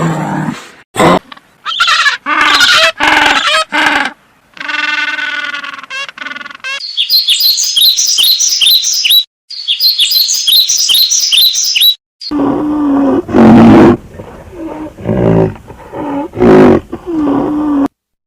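A run of different animal calls, one clip after another: short pitched cries at first, then rapid repeated high bird chirps in the middle, then loud lower calls with sliding pitch near the end.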